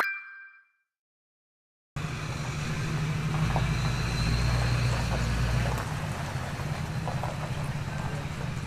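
A short chime-like transition effect fading out, a second of silence, then a steady low rumble with an outdoor noise haze, swelling for a couple of seconds from about three and a half seconds in.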